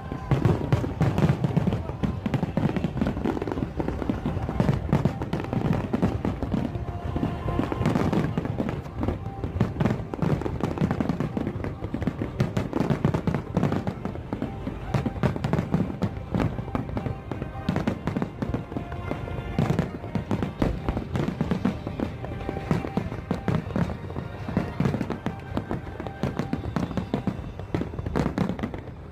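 Fireworks display: many shells bursting and crackling in quick, overlapping succession with no let-up, while music plays underneath.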